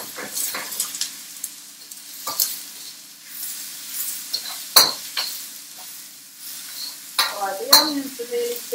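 Onions frying and sizzling in a wok, stirred with a utensil that scrapes and clinks sharply against the pan, the clatter busiest near the end.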